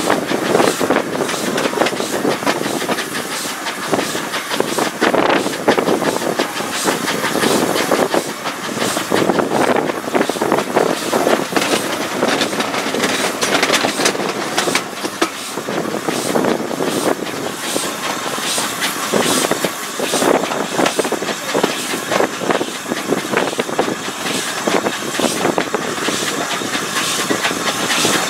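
Passenger train running along the line, heard from an open carriage window: a steady rush of running noise and moving air with frequent short knocks from the wheels on the track.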